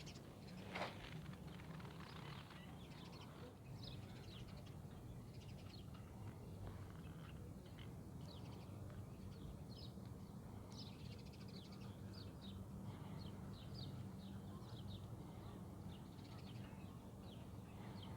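Small birds chirping, short high notes repeated many times, thickest in the second half, over a steady low hum. A single sharp click about a second in.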